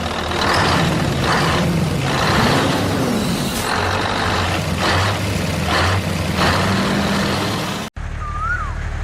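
Engine-like running noise, a steady low hum with repeated hissing surges, that cuts off abruptly near the end, followed by a short rising-and-falling tone.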